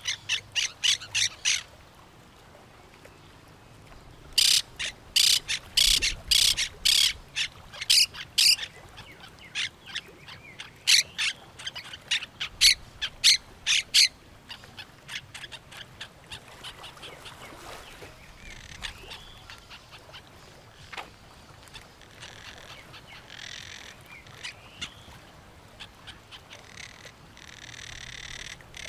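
Parrots squawking in rapid runs of harsh, evenly repeated calls, a short run at the start and a long loud run a few seconds in, then fainter scattered calls until they grow louder again near the end.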